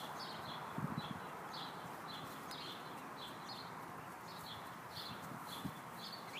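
A bird chirping repeatedly in short, high notes, about two a second, over a steady faint outdoor hiss.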